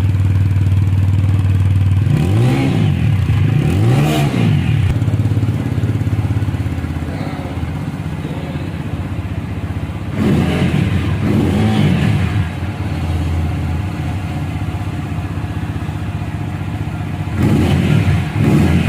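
TVS Apache RTR 200 4V's single-cylinder engine idling through its stock exhaust, blipped on the throttle in three pairs of quick revs that rise and fall back to idle.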